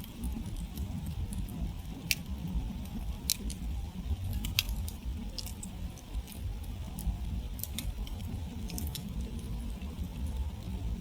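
Wood campfire burning down to embers, crackling with irregular sharp pops, the clearest about two, three and four and a half seconds in, over a steady low rumble.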